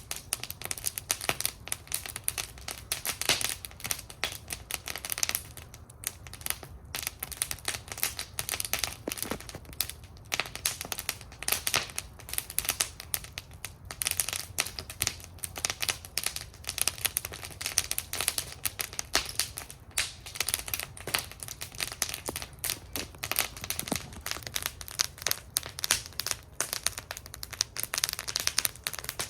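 Wood fire burning in a metal fire bowl, crackling constantly with many sharp pops and snaps over a low steady rumble.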